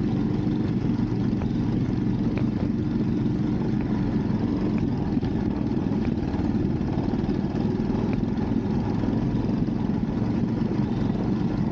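Motorcycle running at a steady pace under way, its engine drone mixed with a constant rush of wind over the camera's microphone.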